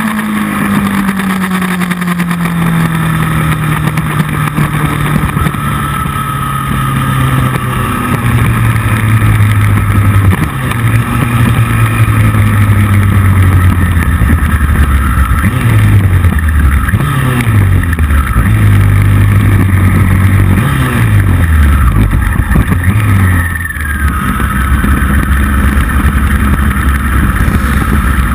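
Motorcycle engine at speed, recorded from on board. The engine note falls steadily over the first few seconds, then rises and drops in a run of quick steps through the middle as the gears change, with a short dip in loudness near the end.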